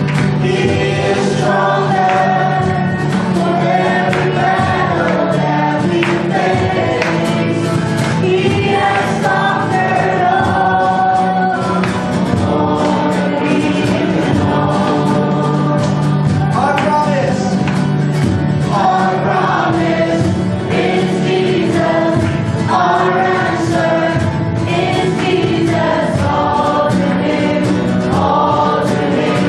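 Choir and congregation singing a gospel worship song with instrumental accompaniment.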